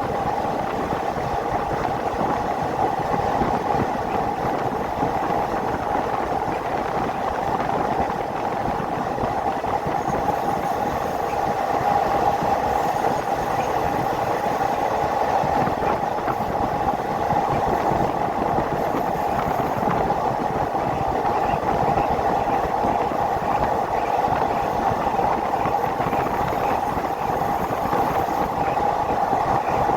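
Passenger train running along the rails: a steady rumble with a constant mid-pitched hum from the wheels on the track.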